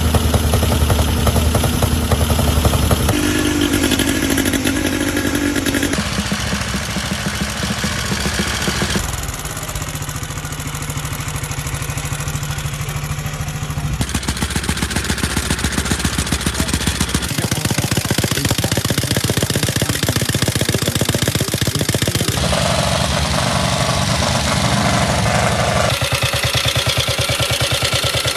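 A succession of different veteran and vintage motorcycle engines, each running for a few seconds with rapid, even firing and mechanical clatter. The engine sound changes abruptly every three to five seconds as one machine gives way to the next.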